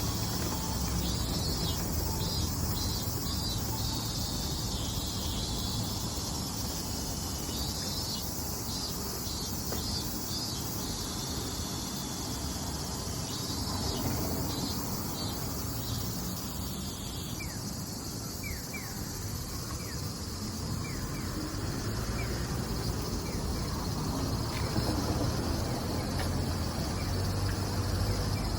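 Robust cicadas (minmin-zemi) singing in repeated bouts of rapid pulsing calls, which stop about halfway through. A steady high-pitched insect drone and a low background rumble run underneath.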